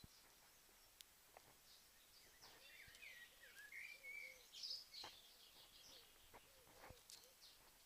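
Faint bird song: soft warbling phrases and short chirps, busiest around the middle, with scattered faint ticks over low background hiss.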